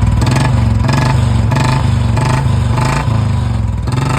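Royal Enfield Bullet UCE single-cylinder four-stroke engine running steadily with its even beat, freshly rebuilt with a new piston kit, head work, new clutch plates and crank work, for a sound check.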